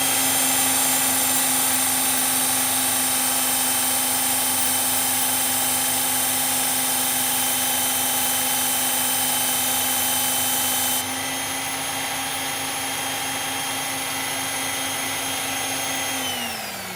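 Electric belt sharpener running with a steady whine while an S30V steel knife blade is ground against the moving abrasive belt, with a hiss of grinding. About eleven seconds in the grinding hiss drops away, and near the end the motor is switched off and winds down, its pitch falling.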